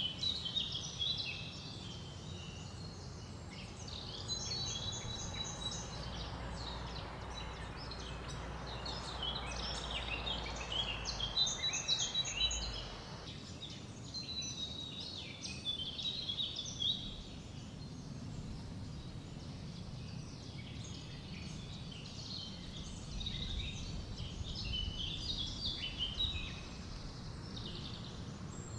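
Forest ambience: several songbirds chirping and trilling in overlapping high, quick phrases, over a steady low wind rumble. A soft rush of wind through leaves swells from about four seconds in and stops abruptly near the middle.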